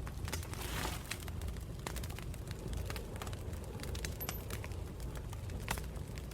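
Wood campfire burning: frequent sharp crackles and pops over a low steady rumble of flames, with a brief hiss just under a second in and a tiny high whistle about four seconds in.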